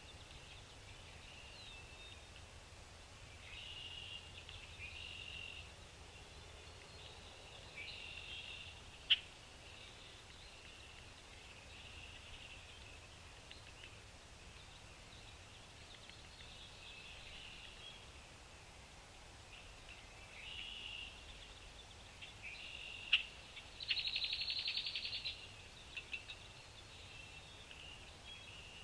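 Small birds chirping on and off in short high calls, with two sharp clicks, one about nine seconds in and one near the end, and a fast, higher rattling trill shortly after the second click.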